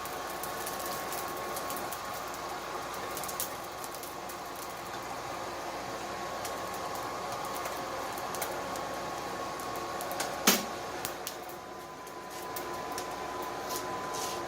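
Steady whirring hum of a hair-dryer blower feeding air to a forge, with a single sharp clank about ten seconds in.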